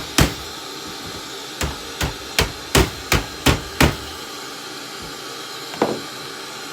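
Hammer striking the plastic case of an old boombox to knock its covers off: one blow near the start, then a quick run of seven blows at about three a second, and a last blow near the end.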